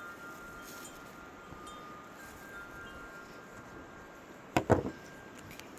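Wind chimes ringing lightly, with several clear tones that fade out. About four and a half seconds in come two or three sharp knocks in quick succession, the loudest sounds here.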